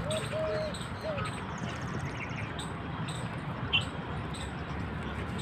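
Birds calling: a short run of low arched notes at the start, a rapid high trill, and a single sharp chirp, over a steady background noise.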